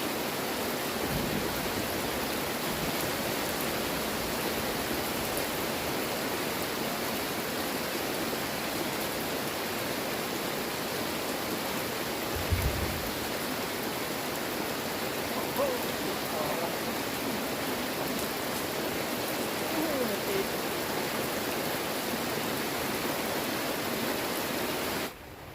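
Heavy rain falling, a steady dense hiss, with a single low thump about halfway through.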